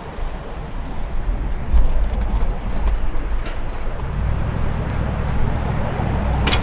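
Low, steady rumbling roar of tornadic wind, building about two seconds in and again about four seconds in, with a short crackle near the end.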